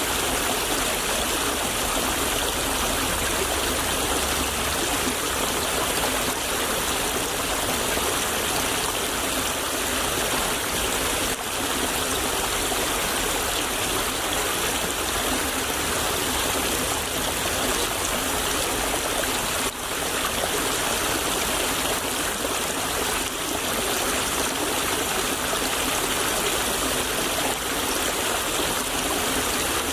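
Shallow stream of water flowing and babbling steadily.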